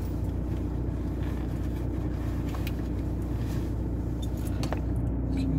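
Car engine idling with a steady low hum, heard from inside the cabin while the car waits in place, with a few faint ticks.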